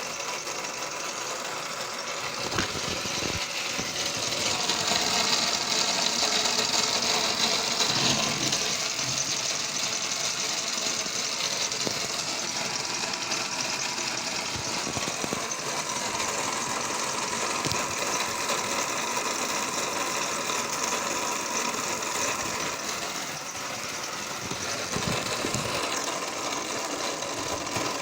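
Small model Stirling engine running steadily, a fast even mechanical whir and rattle that swells a few seconds in and then settles.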